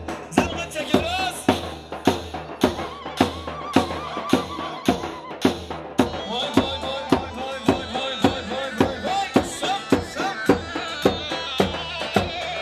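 Turkish halay folk dance music: a drum beats a steady rhythm of about two to three strokes a second under a wavering, ornamented melody line.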